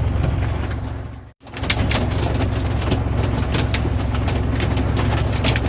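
Pea-sized hail hitting a semi truck's cab and windshield: a dense, uneven run of quick sharp ticks over a steady low rumble. The sound cuts out for a moment about a second and a half in.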